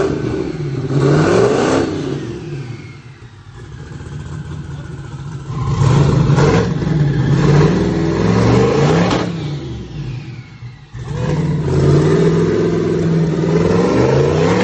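Twin-turbo 427 Dart-block V8 free-revved by hand at the throttle while parked. It runs up in repeated bursts of revs, dropping back toward idle about three seconds in and again near eleven seconds. It is running on a corrected tune after an error had pulled 30 degrees of timing.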